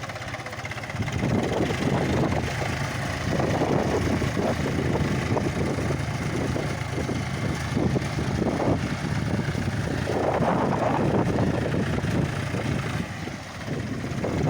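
John Deere 45 hp tractor's diesel engine running, getting louder about a second in and staying loud, with a brief drop shortly before the end.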